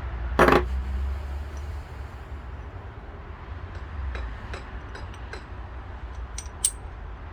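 Metal lawn tractor transmission parts being handled and set down: one loud clunk about half a second in, then scattered light clinks and taps, the sharpest near the end, over a steady low hum.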